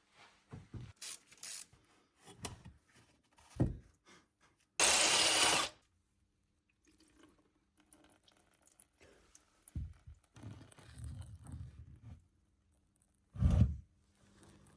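Workshop handling noises: scattered clicks and knocks of tools and parts. There is a steady hiss lasting about a second near the middle and a heavier knock near the end.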